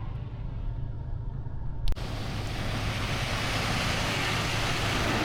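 Steady low vehicle rumble heard from inside a car. About two seconds in a sharp click sounds, and a rushing hiss starts and grows steadily louder.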